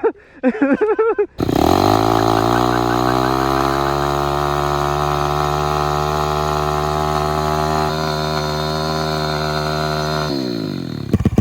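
Pit bike engine blipped briefly, then held at high, steady revs for about nine seconds in a burnout, spinning the rear tyre, and dropping back near the end.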